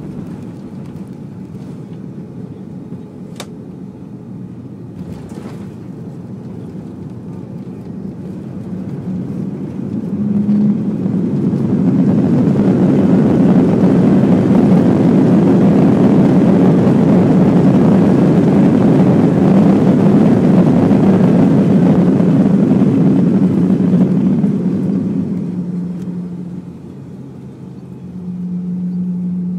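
Airbus A330-300 engines and rollout rumble heard from inside the cabin just after touchdown. A steady low rumble swells about eight to twelve seconds in, holds loud for over ten seconds, then dies away near the end, the engines spooling up into reverse thrust and back down as the jet slows on the runway.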